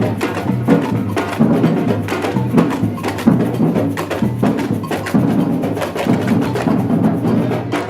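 Batucada samba percussion group playing: deep drums pulse under a dense, fast rhythm of sharp strikes.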